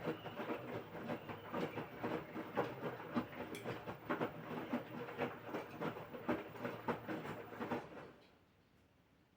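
LG 6.5 kg washing machine tumbling its load, laundry and water sloshing and thudding in the turning drum, which stops about eight seconds in as the drum pauses between turns.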